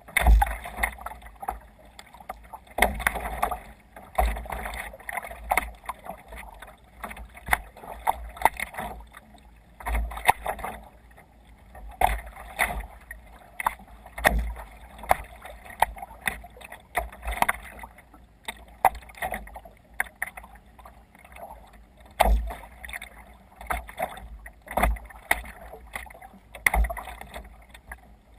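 Water slapping and splashing against a sea kayak's hull as it sails through waves, with irregular hits about every two seconds.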